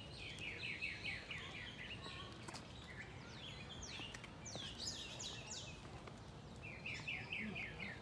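A small bird singing three times: each phrase a fast run of short, falling chirps, over a steady low background rumble.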